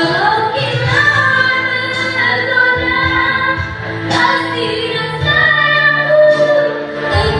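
A woman singing a song live, holding and sliding between notes over instrumental accompaniment.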